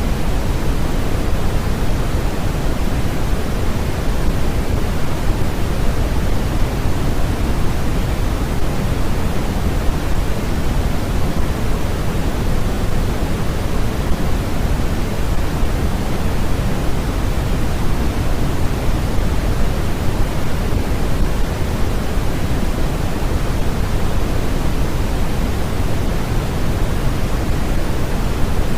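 Steady, unchanging noise of a sleep noise track. It sounds as an even hiss that is fuller in the lows than the highs, like pink noise.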